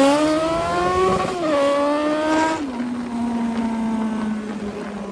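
Yamaha XJ6's 600 cc inline-four through a 3-inch aftermarket exhaust, accelerating hard. The pitch climbs, dips once at an upshift and climbs again, then about two and a half seconds in drops suddenly as the throttle closes, and the engine settles to a steady, lower tone that fades as the bike coasts.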